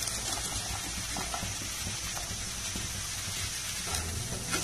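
Diced vegetables frying in a little oil in a nonstick pan: a steady soft sizzle, with a few light knocks as the pieces drop in and a spatula stirs near the end.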